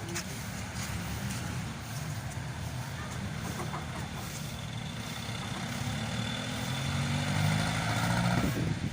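A vehicle engine running steadily, then rising in pitch and getting louder over the last few seconds before dropping away suddenly near the end.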